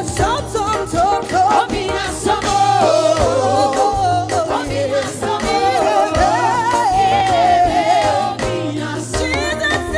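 Live gospel worship music: a lead voice singing a long line that bends and wavers up and down in pitch, over a backing band with steady bass.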